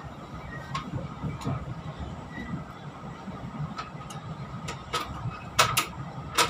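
Chu-Kuang express passenger carriage running along the track, heard from inside the carriage: a steady low rumble broken by irregular sharp clicks and knocks, with a few louder ones close together near the end.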